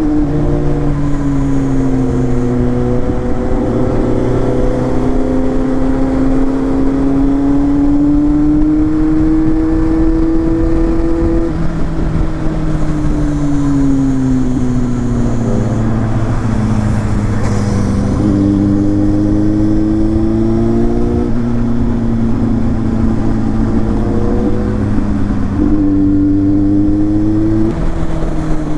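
Kawasaki Z800's 806 cc inline-four engine running under way, its pitch climbing and falling with the throttle and stepping abruptly up or down several times as gears change, over low wind rumble.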